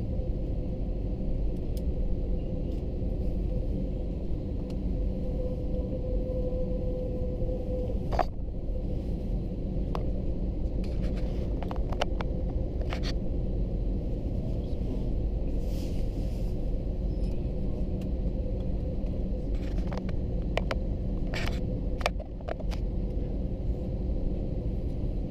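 Steady low rumble in the cabin of an Airbus A321-200 on the ground, engines running at low power with no spool-up, with a faint steady hum and a few light clicks and knocks scattered through.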